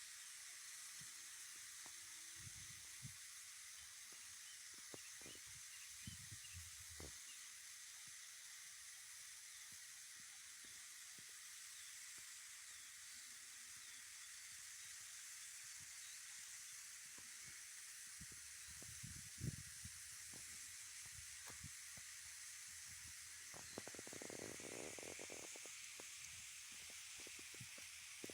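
Near silence: a faint steady hiss with a few soft, low bumps scattered through it, the loudest about two-thirds of the way in.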